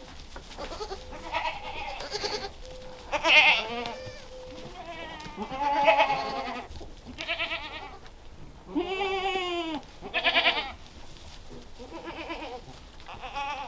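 Kiko goats bleating, a string of separate quavering calls, the longest about a second long a little past the middle.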